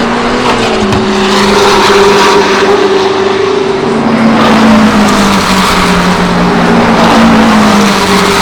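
Racing cars' engines running loud at speed, more than one engine note heard together. The pitch dips about a second in and slides down again near the end.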